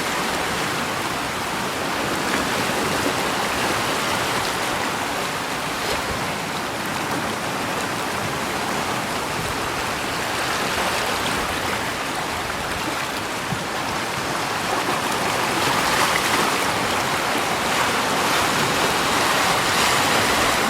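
Steady rush of moving water, growing a little louder about three quarters of the way through.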